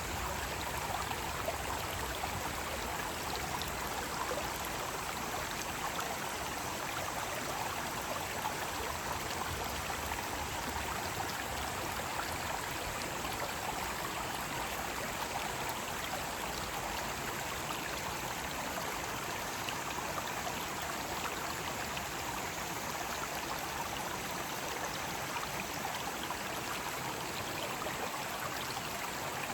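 Mountain stream rushing steadily over rocks, a constant splashing hiss of water.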